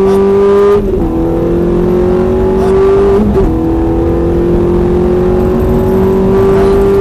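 Ferrari F430's V8 engine under hard acceleration, heard from inside the cabin: the engine note climbs steadily, drops sharply at an upshift about a second in and again about three seconds in, then climbs again.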